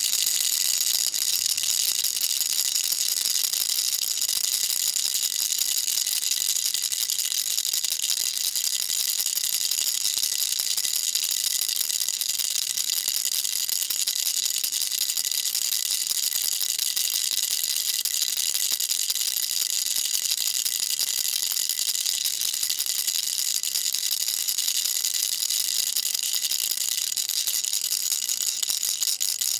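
Baby rattle shaken without a break: a fast, even, high-pitched rattle that does not pause or change.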